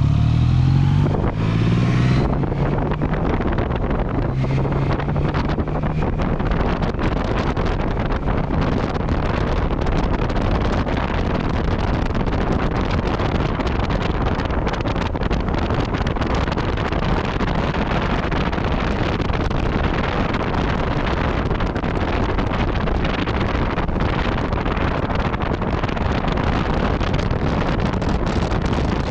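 Yamaha MT-09 Tracer's three-cylinder engine through an Akrapovic exhaust, heard at speed with wind rushing over the microphone. The engine note climbs and is clear in the first several seconds, then is mostly buried under steady wind noise.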